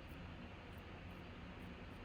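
Steady low hiss and hum of room tone, with a few faint, very high ticks.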